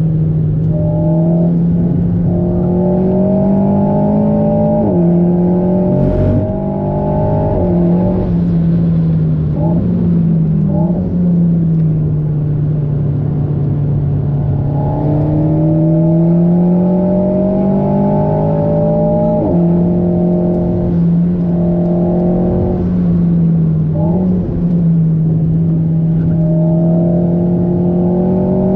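Alpine A110's turbocharged 1.8-litre four-cylinder engine, remapped to 300 PS, heard from inside the cabin at racing speed. Its pitch climbs under acceleration and drops sharply at gear changes, several times over. A single thump comes about six seconds in.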